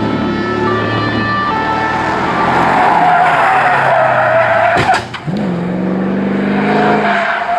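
Hill-climb course-opening car driven hard: engine revving and shifting through the gears, with tyres squealing through a corner in the middle. A sharp click about five seconds in, then the engine picks up again.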